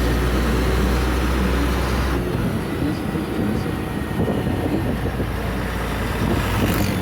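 Scania P124 truck's diesel engine and drivetrain running on the move, a steady low drone that drops away about two seconds in and gives way to a rougher rumble, as when the driver shifts through the truck's many gears.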